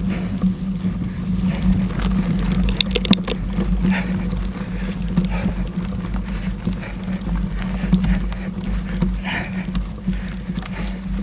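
Mountain bike riding along a dirt trail: a steady rumble of tyres and wind on the microphone, with scattered clicks and rattles from the bike.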